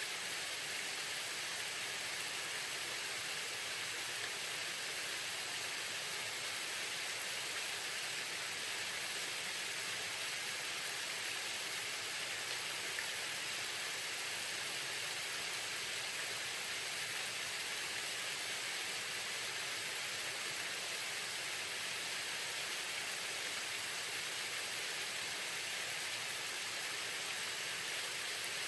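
Waterfall: a steady, unbroken rush of falling water, hissing and even.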